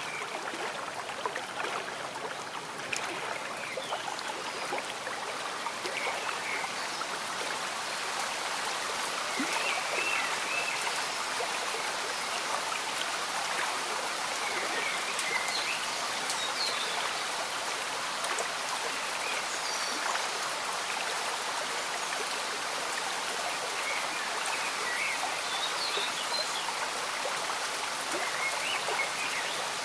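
A gently bubbling stream with steady rain falling in a forest, and short bird calls every few seconds.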